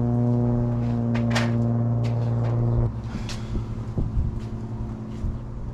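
A loud, steady, buzzy electrical hum from a machine cuts off abruptly about three seconds in. Light clicks and knocks of tools and metal parts being handled follow.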